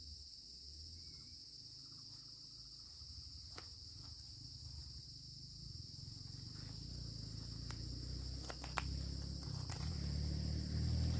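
Crickets chirping in a steady high-pitched chorus. A low rumble grows louder over the last few seconds, and a few sharp clicks come near the end.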